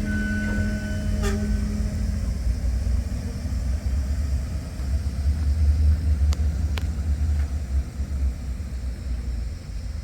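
MTH O gauge model train running on the layout: a steady low rumble of the locomotive's motor and wheels on the track, with a few sharp clicks. The tail of its sound system's whistle dies away in the first couple of seconds.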